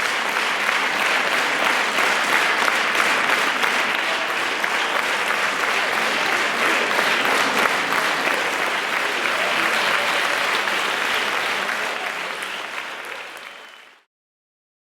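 Concert-hall audience applauding steadily, fading out about two seconds before the end and then cut off to silence.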